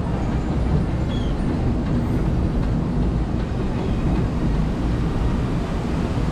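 Steady low rumble of the Disneyland Railroad steam train.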